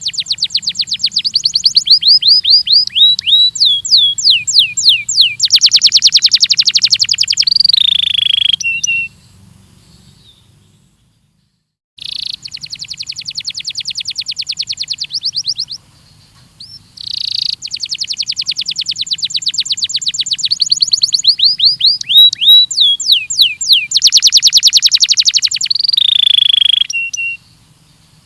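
Belgian canary singing training song in long phrases of fast trills, runs of quick falling whistles and dense rolls. It stops for about three seconds around a third of the way in, then sings a similar phrase again.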